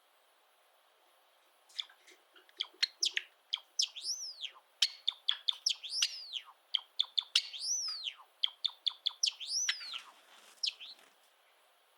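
A Java sparrow singing. Sharp clicking notes build into a rapid song of repeated arched whistles, each rising and then falling in pitch. It starts about two seconds in and stops about a second before the end.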